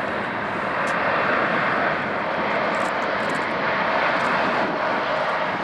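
Airliner engines passing close by: a loud, steady rush of engine noise with a faint steady whine underneath.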